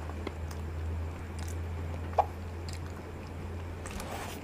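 A person chewing a mouthful of soft durian pengat with glutinous rice close to the microphone: wet mouth sounds and small clicks, with one sharper click about two seconds in. A low steady hum underneath dies away near the end.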